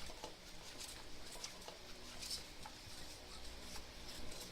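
Battery-powered Cat's Meow cat toy running faintly: a low steady motor hum with light scratchy rustles and ticks as its wand circles under the fabric cover.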